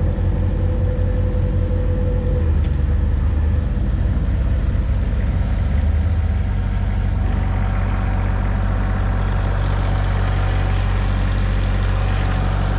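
Ram pickup truck engine running after a start-up, a steady low rumble. A higher tone fades out after about two seconds, and from about seven seconds in a broader hiss rises over the rumble.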